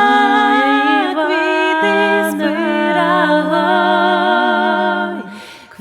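A cappella folk singing in three-part vocal harmony, with long held notes moving together in steps. It fades away near the end before the next line.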